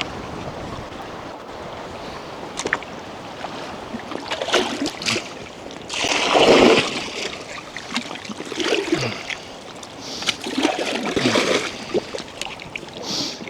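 Water splashing and sloshing in surges about every couple of seconds, the biggest about halfway through, over a steady rush of wind on the microphone.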